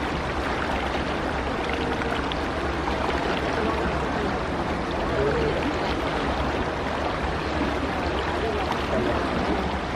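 Steady rush of water along a moving ferry's hull, with a constant low engine drone underneath.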